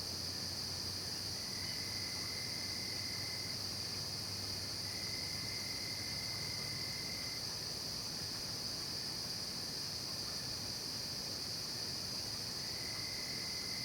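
Night chorus of crickets and other insects: a steady, unbroken high-pitched shrilling, with a lower trill that starts and stops three times, each time running about two seconds.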